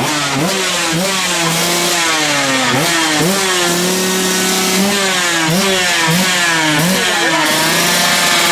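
Motocross bike engine revving, its pitch climbing and dropping again and again as the throttle is worked, then settling into a steady higher note near the end.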